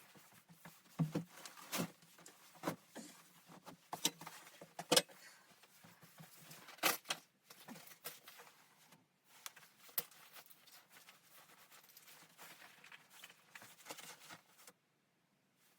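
Irregular sharp clicks and knocks, as of objects being handled and set down, a dozen or so spread out unevenly, stopping shortly before the end.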